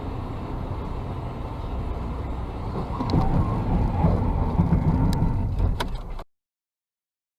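Car driving noise picked up by a dashcam: a steady low rumble of engine and tyres that grows louder about three seconds in, with a few light clicks, then cuts off abruptly.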